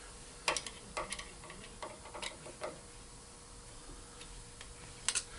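Light, irregular clicks and taps of tooling being handled as the pilot is set further into a valve guide on a valve seat cutting machine, over a faint steady hum.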